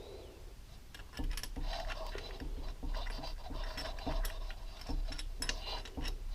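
Metal engine parts being handled and fitted: irregular clicks and scrapes of metal against metal, starting about a second in.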